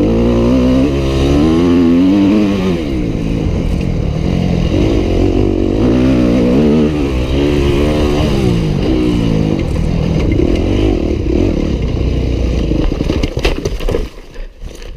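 Yamaha YZ250F four-stroke single-cylinder dirt bike engine being ridden, revving up and down with the pitch rising and falling repeatedly. Near the end the engine sound drops away sharply.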